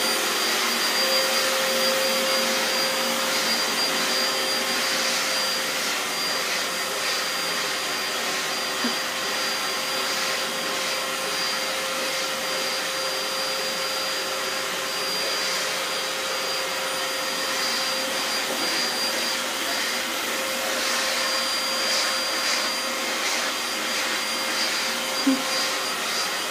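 Vacuum cleaner running steadily, a high steady whine over the rush of air, as its nozzle is run over the fur of two cats.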